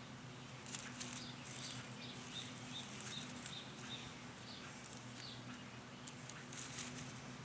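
Irregular bursts of rustling and scratching from hands working among potato plants and garden soil.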